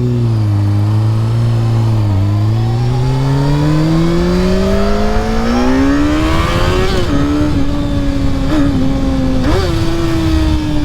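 Honda CBR600F4i sport bike's inline-four engine pulling away under acceleration. Its note climbs steadily for several seconds, then levels off and holds steady.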